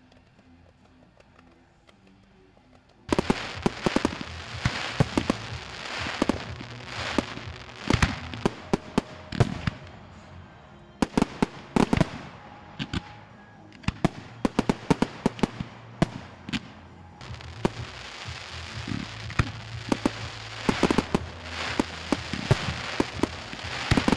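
Fireworks going off: a dense barrage of rapid sharp bangs and crackling that starts suddenly about three seconds in, with brief lulls between volleys.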